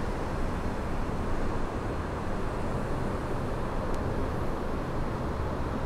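Wind buffeting the microphone: a steady, low rushing noise with no distinct events.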